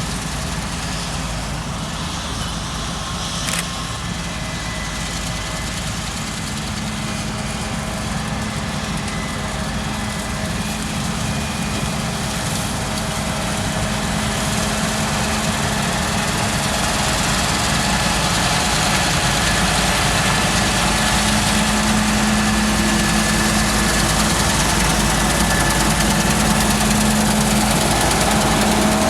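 Claas Lexion 7600 combine harvester running in the field, a steady engine and machinery drone that grows gradually louder over the second half. There is a brief click about three and a half seconds in.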